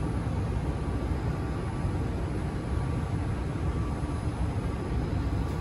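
Steady low hum and rush inside a metro train car standing at a station platform with its doors open, with a faint steady high tone over it.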